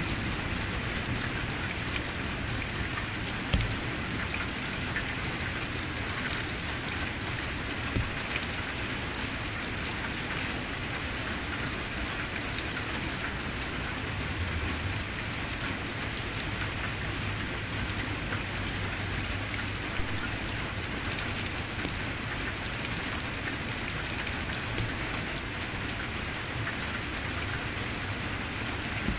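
Heavy rain falling steadily in a thunderstorm, with a few sharp taps.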